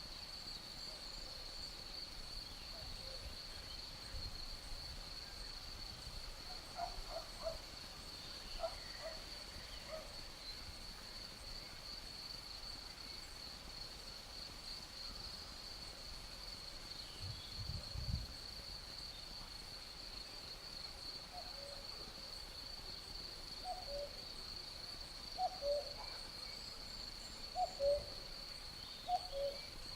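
Night-time nature ambience: a steady high-pitched insect chirring, with short low hooting calls in pairs and small groups, coming more often near the end. A single low thump about eighteen seconds in.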